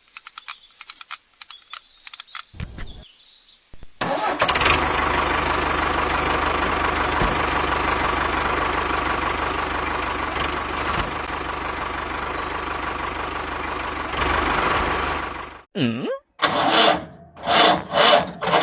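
An engine starting about four seconds in, then running steadily for about eleven seconds before cutting off abruptly. A few sharp clicks come before it, and some short voice-like calls come after it.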